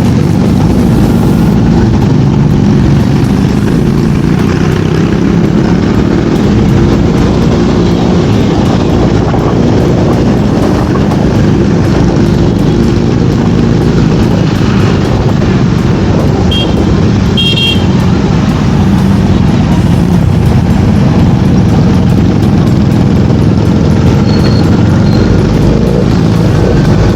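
Motorcycle riding on the road: steady engine and traffic noise, with heavy low rumble of wind on the microphone.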